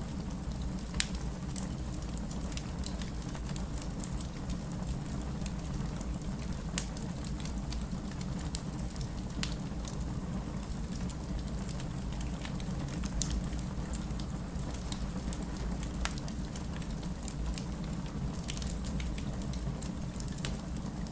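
Wood fire burning in a fireplace: a steady low rumble of flames with irregular sharp crackles and pops from the burning logs, a few of them louder than the rest.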